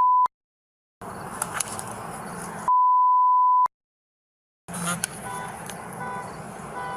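Two censor bleeps in police body-camera audio: a steady mid-pitched beep ending just after the start and another lasting about a second a little before the middle, each followed by about a second of dead silence where the sound is cut out to redact speech. Faint background noise from the scene lies between them.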